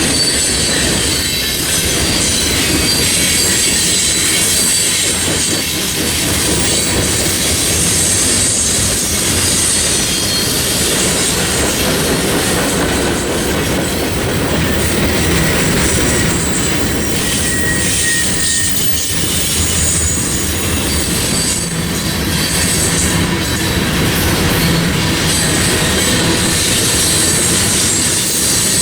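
Freight train cars rolling past, their steel wheels running on the rails with a continuous high-pitched flange squeal.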